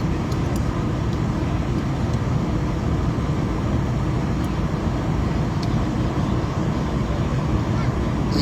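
Steady low rumble and hiss of a moving vehicle's cabin, with a few faint clicks.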